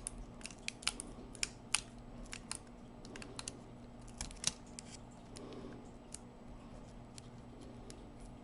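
Small, irregular clicks and scratches of picking and prying at the touchpad's grounding strap inside a laptop, quickest in the first few seconds and then sparser, over a faint steady electrical hum.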